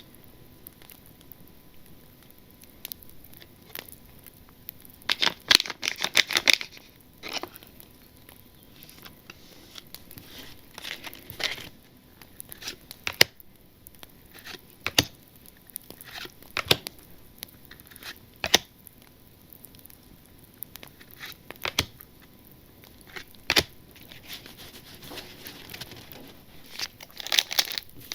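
Trading cards and their plastic pack wrappers being handled: short bursts of crinkling and tearing, with scattered sharp clicks and taps between them.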